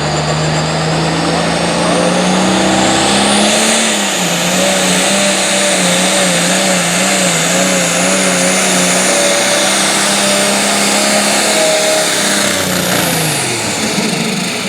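Pulling tractor's engine at full power during a pull: it revs up about three to four seconds in as a high whistle climbs, the engine pitch wavers up and down while under load, then the revs and whistle drop away near the end.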